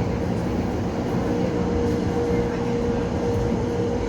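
Tampere light-rail tram running along the track, heard from inside the car: a steady low rumble of the wheels with a constant whine from the drive.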